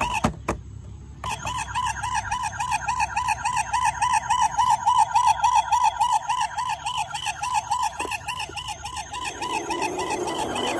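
Toy police car's electronic siren sounding in a rapid warble, starting about a second in after a few clicks.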